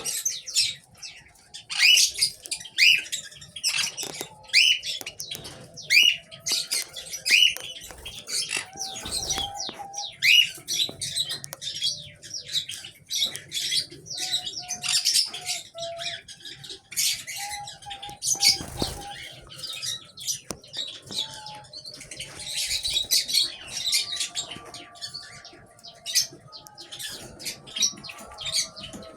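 Grey Java sparrows chirping in an aviary: a steady stream of sharp, high chirps, with a run of short rising calls repeated about once a second early on. Twice there is a duller low flutter or thump among the calls.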